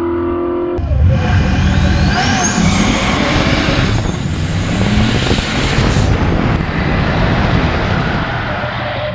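Turbocharged V8 drag car launching hard and accelerating. It comes in suddenly and loud about a second in, its pitch climbing, dropping at a gear change around four seconds in, then climbing again.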